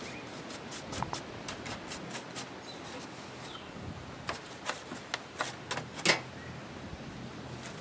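Irregular clicks and taps, the loudest about six seconds in, with a few brief bird chirps.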